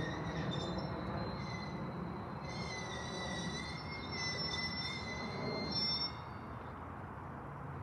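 Freight train's covered hopper cars rolling slowly on the rails with a steady rumble, and a high, wavering wheel squeal from about a second and a half in until about six seconds in.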